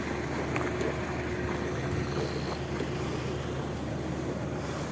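A steady low mechanical drone with a faint constant hum in it, holding even throughout.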